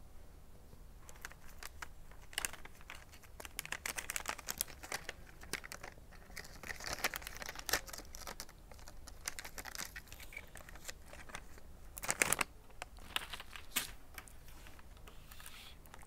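Close-miked eating sounds: a person chewing and biting into a piece of tempura, a run of crackly, crinkly clicks, loudest a little after twelve seconds.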